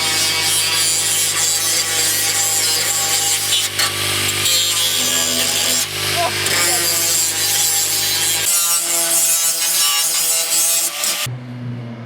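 Power grinder grinding down the sharp, rusty edge of a car's steel fender, a steady harsh grinding noise that cuts off suddenly about eleven seconds in.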